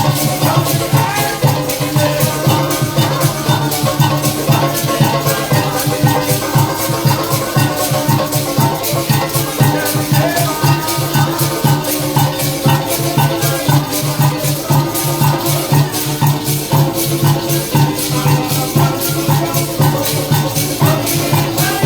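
Live parang music: maracas shaking a quick, steady rhythm over pitched instruments and a strong bass line.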